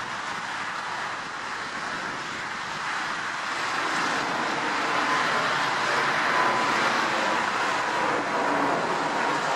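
Jet noise from an Airbus A350-900's Rolls-Royce Trent XWB engines at takeoff thrust: a steady rushing sound that swells gradually from about three seconds in, with a faint high whine joining later on.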